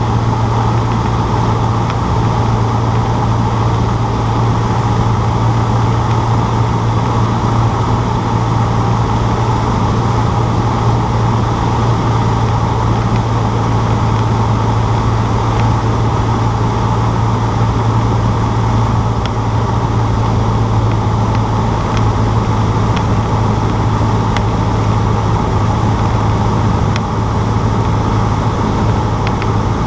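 Cessna 152's four-cylinder Lycoming engine and propeller giving a loud, steady drone with a deep low hum, held at constant power.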